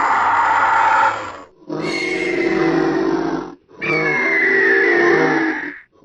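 Designed creature sound effect for a Hatzegopteryx, a giant pterosaur: a call dies away about a second and a half in, then two more calls follow, each about two seconds long, the last with a high, falling shriek over a lower rasp.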